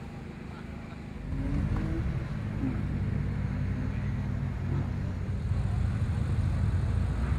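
A car engine running steadily at idle close by. It comes in about a second in, as a low, even hum.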